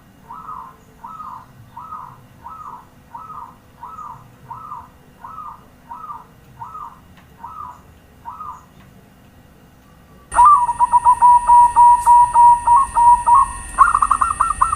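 Zebra dove (perkutut) cooing: a run of about a dozen short, soft coos at an even pace, roughly one every half second or so. About ten seconds in, a much louder, rapid rolling coo phrase starts, with a steady high hiss behind it.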